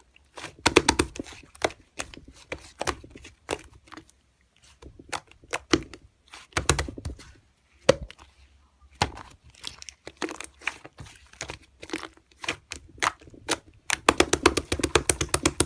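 Slime being squished and stretched by hand, giving clusters of rapid sticky clicks and pops, with short pauses between handfuls.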